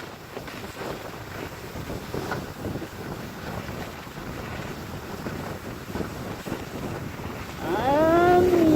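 Skis sliding and scraping over snow, with wind buffeting the phone's microphone. Near the end a louder, drawn-out pitched tone starts, rising and then slowly falling.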